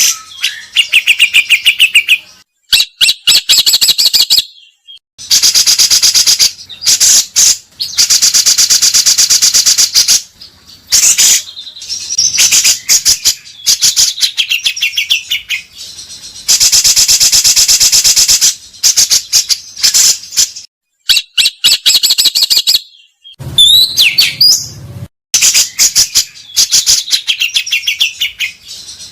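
Songbird singing loud, harsh, rapid rattling trills in long bursts of several seconds each, with brief pauses between them: the rough, long 'tembakan' song used as masteran to train pet songbirds.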